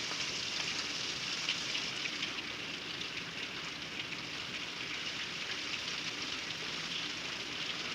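Steady rain from a thunderstorm falling, an even hiss with scattered ticks of individual drops.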